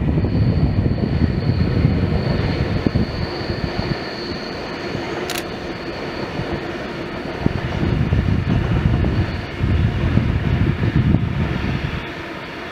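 Double-deck electric intercity train running along the line, a heavy low rumble that swells and eases, with a steady high whine over most of the first nine seconds and a single sharp click about five seconds in.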